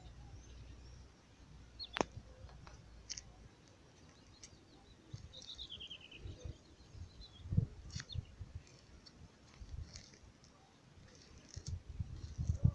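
A songbird singing a short falling trill about five seconds in, over scattered sharp clicks and low thumps of the phone being handled while walking.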